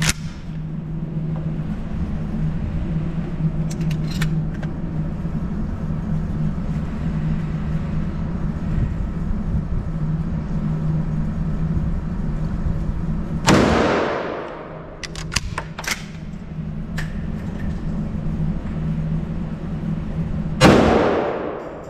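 Churchill tactical 12-gauge shotgun firing two rounds of buckshot, one blast about halfway in and a second about seven seconds later near the end, each ringing off in the room. A steady low hum runs underneath, with a few small clicks between the shots.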